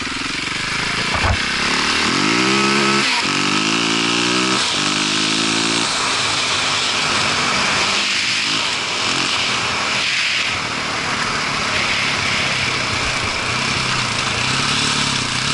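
Motorcycle engine pulling through the gears, its pitch rising and dropping back at each of several shifts between about two and six seconds in, then running steadier, under heavy wind rush.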